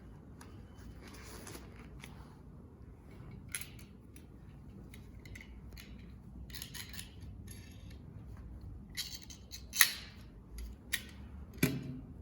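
Rustling and light clicking of examination equipment being handled, with a few sharper clicks near the end.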